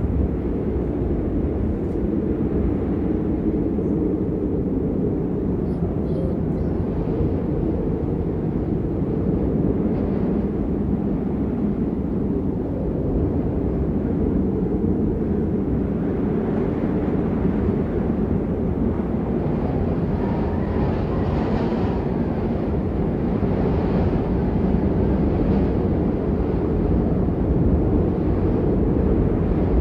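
Snowstorm wind blowing steadily as a low rushing noise, with no distinct events.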